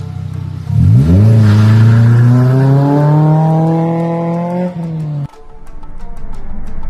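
Toyota Celica's four-cylinder engine accelerating hard, its exhaust note climbing steeply about a second in and then holding high for a few seconds before it cuts off suddenly. Background music with a steady beat follows near the end.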